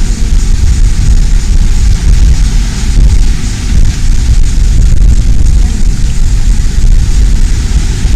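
Motorboat engine running under way: a loud, steady low rumble with a hiss over it.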